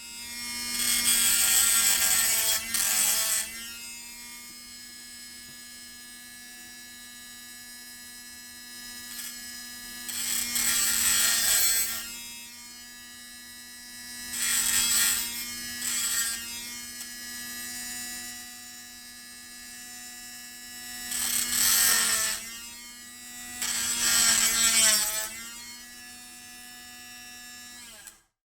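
A hot air tool's blower running with a steady buzz, with five separate surges of louder rushing air. It switches off abruptly near the end.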